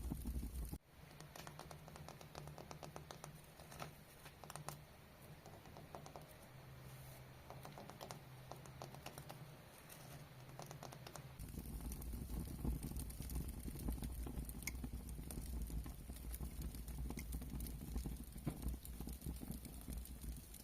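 Fast, light ASMR tapping, many small clicks a second. About halfway through, a louder low rumble comes up under sparser taps.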